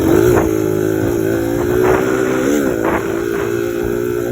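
1986 Suzuki DR100's small single-cylinder engine running while being ridden, holding steady revs with a couple of brief rises in pitch, one right at the start and one about halfway through.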